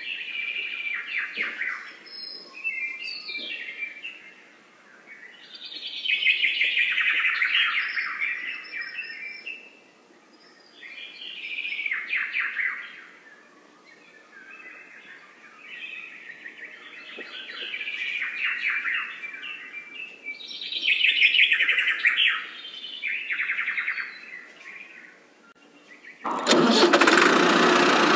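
Birds chattering and chirping in repeated bursts of a second or two, every few seconds. About two seconds before the end, a loud, steady engine sound cuts in suddenly and drowns them out.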